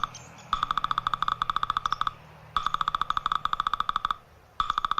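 Woodpecker drumming: three rapid rolls of knocks on wood, each lasting about a second and a half with brief pauses between.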